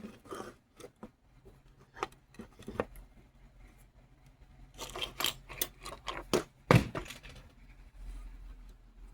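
Small metal tools and parts being handled on a jeweler's bench: scattered clicks, scrapes and rattles, with a sharper knock about two-thirds of the way through.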